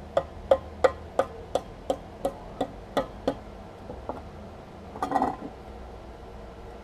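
A quick, even series of about ten sharp knocks, roughly three a second, ending with a fainter one; then a single dog bark about five seconds in.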